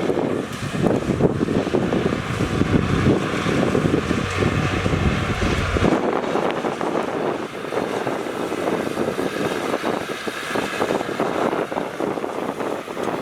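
Heavy diesel earth-moving machinery running, a dense mechanical noise. About six seconds in, the deep rumble drops away suddenly and a thinner, higher noise carries on.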